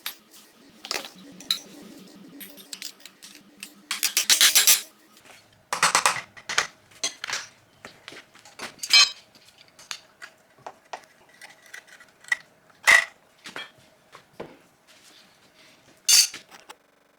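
Metal tools and engine parts clinking and knocking against each other during teardown of an old VW engine's cylinders and pistons. There is a quick run of rapid metallic ticks about four seconds in.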